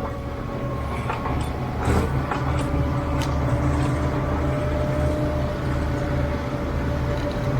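Massey Ferguson 4840's V8 diesel engine working in the field, a steady, rhythmic low beat with a held whine over it, getting louder over the first couple of seconds. A few sharp knocks and rattles come about one to three seconds in.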